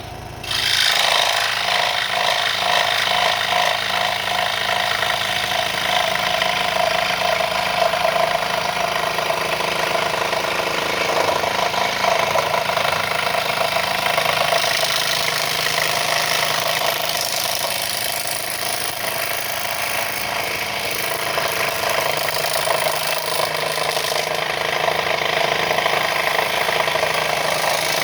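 Wen 3921 variable-speed scroll saw running at full speed, its blade reciprocating rapidly as it cuts through plywood. The noise jumps up sharply about half a second in and then holds loud and steady.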